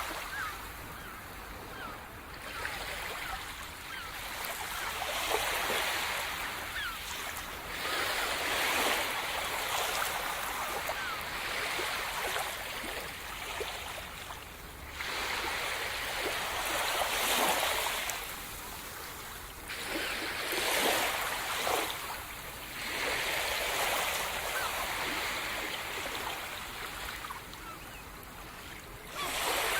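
Sea surf: waves breaking and washing up on the shore one after another, each surge rising and falling over a few seconds.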